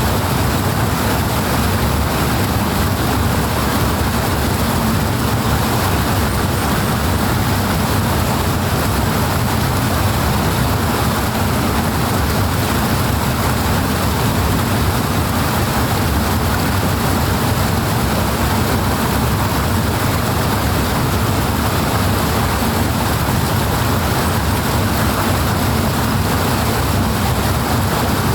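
Powerful rushing water: a loud, steady, unbroken rush with a deep low end.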